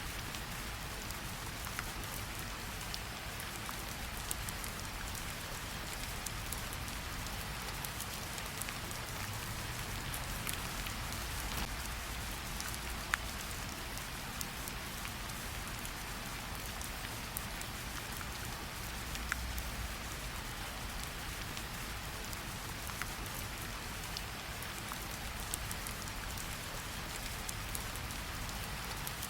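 Steady rain falling on tree leaves, a continuous patter with scattered sharper drop ticks, one standing out about 13 seconds in.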